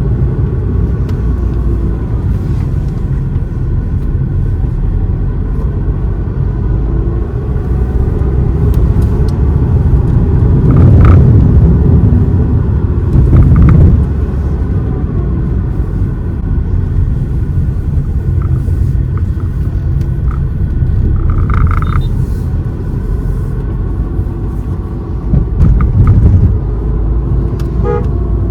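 Car driving on a winding ghat road: a steady low rumble of engine and road noise. It swells louder for a few seconds around the middle and again near the end.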